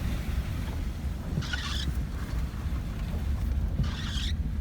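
Steady low engine and road rumble of a pickup truck heard from inside the cab while driving, with a short hissing swish twice, about two and a half seconds apart.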